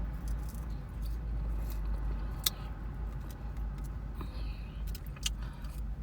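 A person chewing food over a steady low hum, with a couple of sharp clicks about two and a half and five seconds in.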